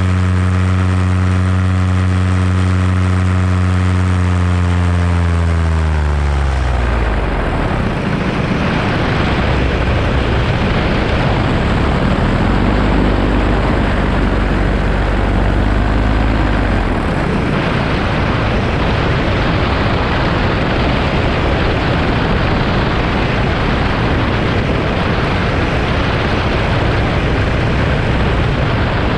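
Paramotor engine and propeller running at a steady pitch, then throttled back about six seconds in, the pitch falling away. After that, wind rushing over the microphone is the main sound, with a low engine hum beneath it.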